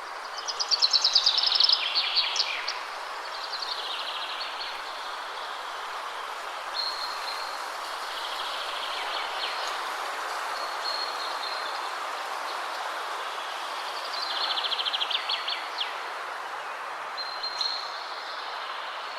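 Steady wind rushing through trees, with songbirds singing over it. A loud, rapid trilled phrase comes about a second in and another around fifteen seconds, with shorter high calls between.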